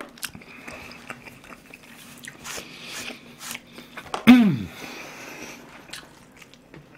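A man chewing food close to the microphone: a run of wet, crunchy chewing and mouth clicks. About four seconds in he makes one short, loud voiced sound that falls in pitch.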